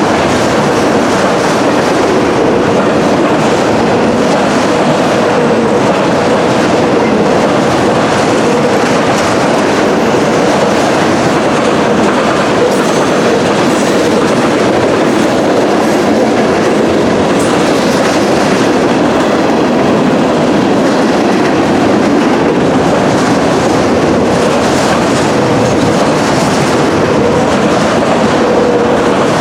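Norfolk Southern freight train's cars rolling past, a loud, steady sound of steel wheels running on the rails with a faint steady whine underneath.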